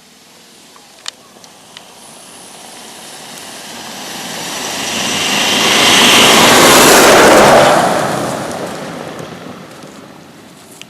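A vehicle passing close by: its engine and tyre noise builds steadily, is loudest for a second or two just past the middle, then fades away. A couple of light clicks come about a second in.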